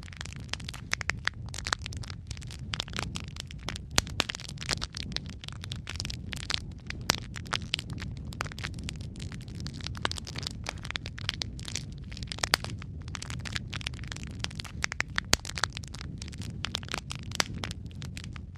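Wood fire in a fireplace crackling, with a steady low rumble of flames beneath many sharp pops and snaps at irregular intervals.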